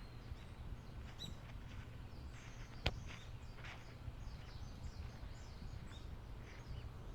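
Small birds chirping in short, scattered calls over a steady low rumble, with one sharp click about three seconds in.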